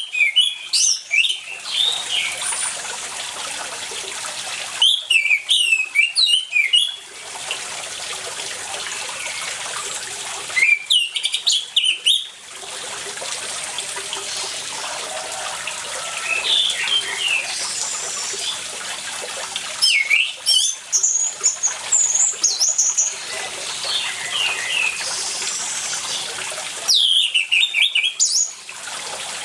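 Orange-headed thrush singing in loud, rapid phrases of a second or two, five in all with a few seconds between them, and softer chirps in the gaps, over a steady rush of running water.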